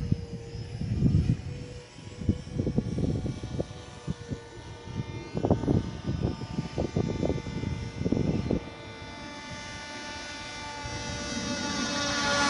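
Small propeller motor of a handmade MQ-9 model aircraft whining steadily in flight, with strong wind buffeting the microphone in irregular gusts. Over the last few seconds the motor grows louder and brighter as the model comes closer.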